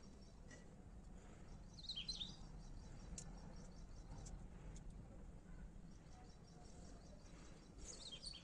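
Faint outdoor background noise with a small bird chirping in short bursts about two seconds in and again near the end, and a few faint clicks in between.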